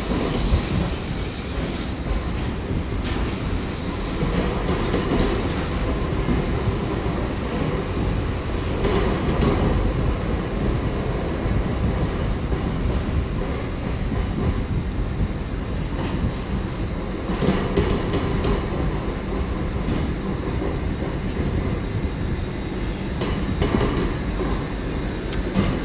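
Class 802 IET train rolling slowly into a terminus platform: a steady low rumble with occasional clacks from the wheels.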